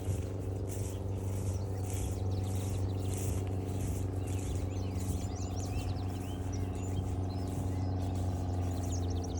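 Wild songbirds singing, with quick chirps and rapid trills that grow busier in the second half, over a steady low engine-like hum.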